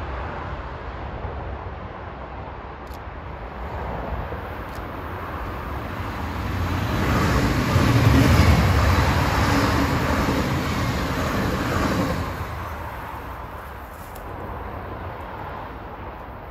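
A train passing by, with rumbling wheel-and-rail noise that builds from about six seconds in, stays loudest for several seconds, then falls away sharply near the twelve-second mark.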